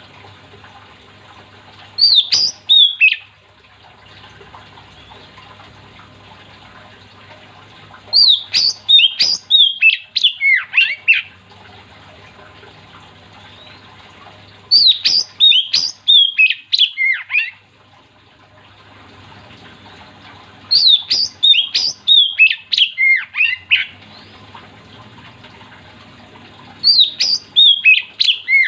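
Oriental magpie-robin (kacer) singing loud, rapid phrases of whistled notes that slide downward. There are five phrases, each lasting one to three seconds, roughly six seconds apart, over a faint steady low hum.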